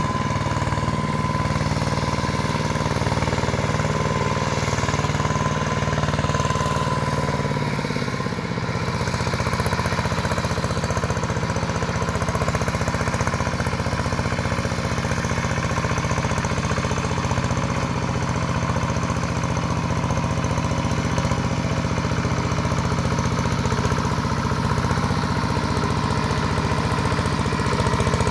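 LandMaster two-wheel hand tractor engine running steadily under load while working in mud, its pitch shifting slightly about eight seconds in.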